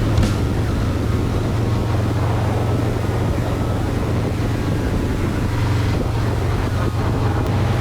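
V-twin motorcycle engine running at a steady cruising speed, a constant low drone, with wind rushing over the microphone.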